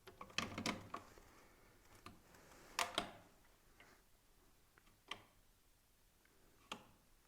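Several sharp clicks and knocks, spaced a second or two apart.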